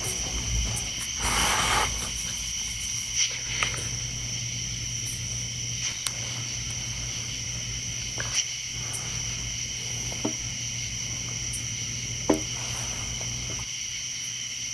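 Night insects, crickets or katydids, trilling steadily in a continuous high-pitched chorus, with a low steady hum underneath and a few scattered clicks and knocks.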